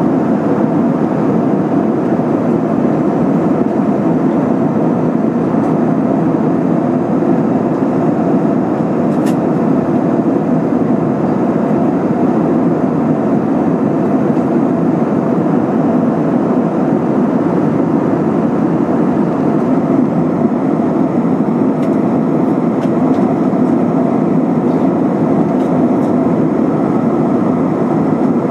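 Steady cabin noise of an Airbus A320-232 in flight: a constant rush of its IAE V2500 jet engines and airflow, heaviest in the low-mid range.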